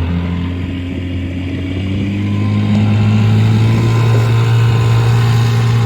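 Motorboat engine running steadily at low speed, getting slightly louder about two seconds in as the boat gets under way.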